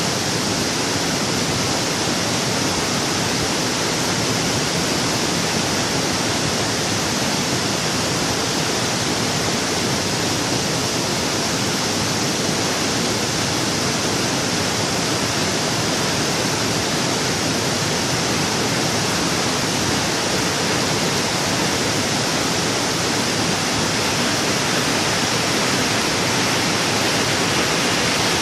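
Waterfall rushing, a loud steady roar of falling water with no breaks.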